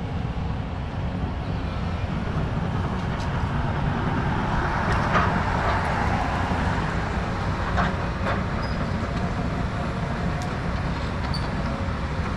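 Demolition excavator's diesel engine running steadily, with a few sharp cracks and a wash of noise in the middle as the house is broken up.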